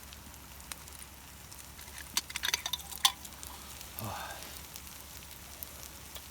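Food sizzling steadily on a hot iron griddle, with a cluster of sharp clicks about two to three seconds in.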